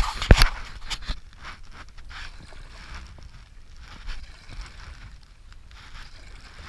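Water splashing and rushing around a stand-up paddleboard on a whitewater river, with a couple of loud sharp knocks right at the start.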